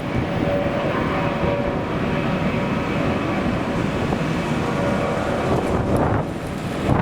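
Jet airliner engines running with a steady rushing noise and a faint steady whine, while strong wind buffets the microphone.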